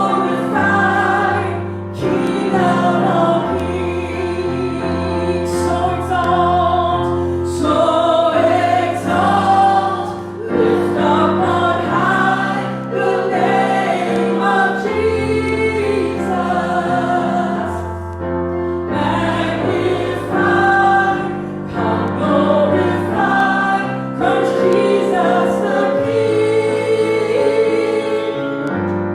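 Congregational worship music: voices singing a gospel-style song over a band with a steady bass line.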